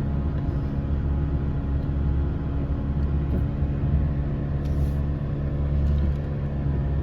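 Chevrolet Silverado's 2.7-litre turbocharged four-cylinder engine engine braking down a steep grade in low gear, running steadily at high revs of around 4,000 rpm to hold the truck back.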